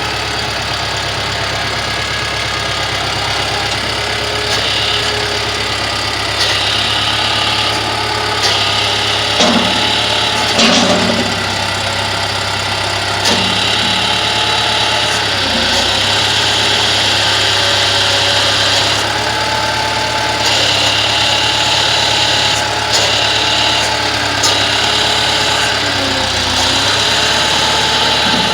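Tractor engine running steadily, with a higher hiss that switches on and off in stretches lasting a few seconds as the loader bucket is worked. A few short knocks fall in the middle.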